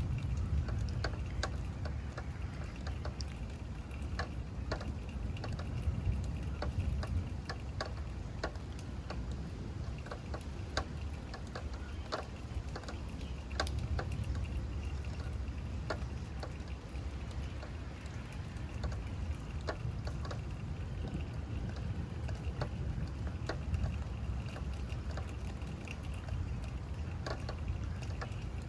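Steady rain during a thunderstorm, with drops tapping and dripping at irregular intervals over a low continuous rumble.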